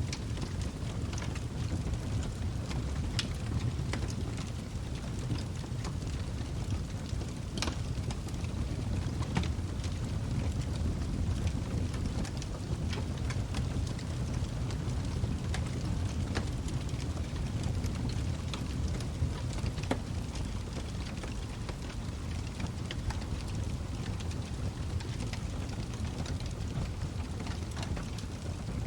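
Log fire burning in a fireplace: a steady low rumble of flames with frequent small crackles and pops, and a sharper pop about eight seconds in.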